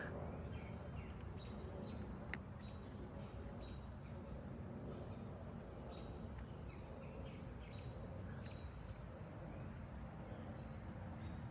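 Quiet outdoor ambience: a steady high insect drone over a low rumble, with scattered short chirps.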